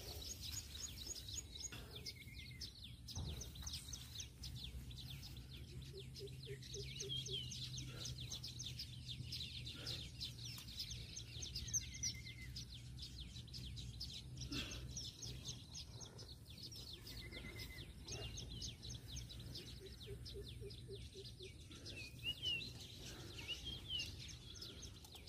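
Wild birds calling and chirping throughout, with many quick high chirps and a few short arched call notes, over a faint steady low hum. A few short rustles and clicks come and go.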